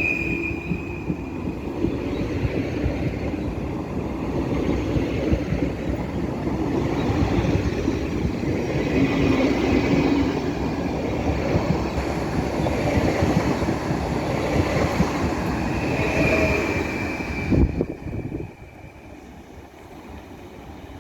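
A train passing close by with a steady rumble of wheels on rails and brief high wheel squeals. The sound drops off sharply about three-quarters of the way through, leaving a much quieter background.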